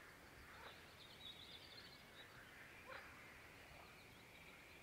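Near silence, with a few faint bird chirps now and then.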